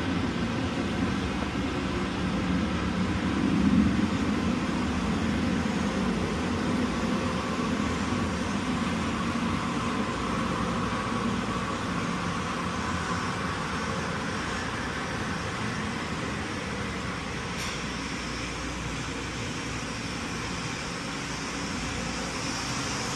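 Steady rumble of boiler-room machinery running, with a single faint click about seventeen seconds in.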